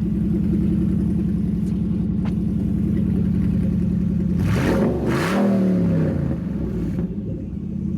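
Dodge Challenger SRT8's 6.1 Hemi V8 idling with its electric exhaust cutouts open, noticeably louder. About halfway through there is one throttle blip, the revs rising and falling back to idle.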